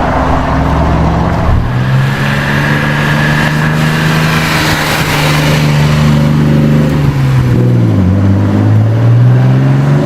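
Loud high-performance car engine and exhaust under acceleration. The pitch holds steady for several seconds, dips sharply just before the eighth second, as at a gear change, then climbs again.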